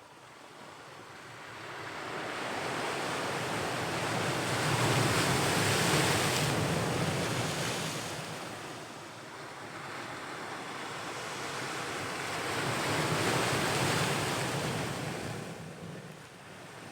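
Ocean waves surging onto the shore: two waves swell up and wash in, the first loudest about six seconds in, the second around thirteen to fourteen seconds, each easing back as the water recedes.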